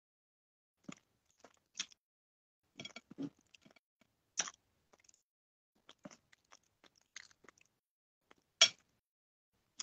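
A person chewing food close to the microphone: irregular small crunches and mouth clicks, the loudest crunch a little before the end.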